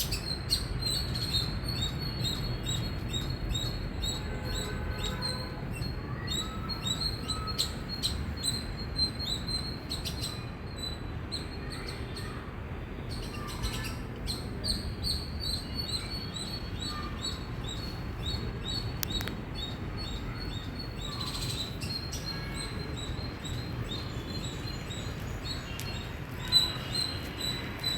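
Indian palm squirrel giving a long run of short, high-pitched chirps, several a second with brief pauses, over a steady low background rumble.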